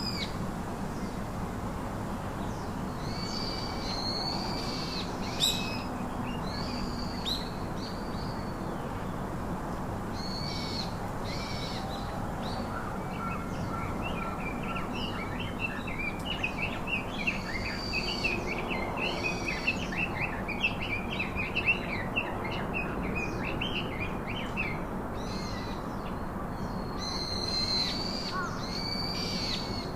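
Several birds calling over a steady background hiss: short, high, arched calls repeat every second or two. About halfway through there is a fast run of chattering chirps lasting around ten seconds.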